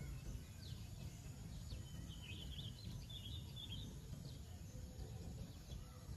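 Faint outdoor ambience: a low steady rumble, with a small bird twittering for about two seconds near the middle and a few faint chirps.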